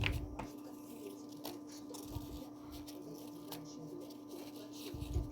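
Faint handling of paper figures: a few light clicks and soft taps over a steady low hum.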